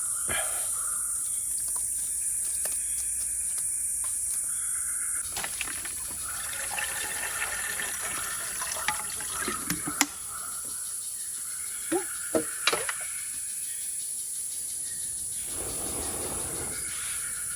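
Water being poured into a pot or container, starting about five seconds in, with a few sharp knocks of the vessel near the middle. Forest insects shrill steadily throughout.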